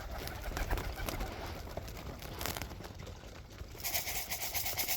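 Pigeons cooing in the loft, with small scuffs and clicks around them. A hiss comes in near the end.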